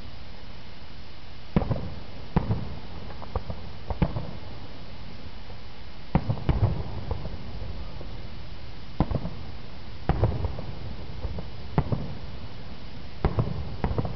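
Aerial firework shells bursting in the sky, a series of sharp booms about every one to two seconds, some coming in quick pairs and followed by a brief rumbling tail.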